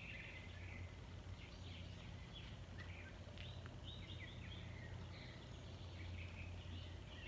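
Small birds chirping repeatedly over a steady low hum of background noise.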